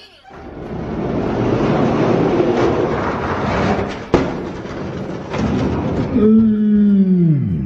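Rumbling of die-cast toy monster trucks rolling and clattering on a toy race track, with a sharp click about four seconds in. Near the end a drawn-out vocal exclamation falls in pitch.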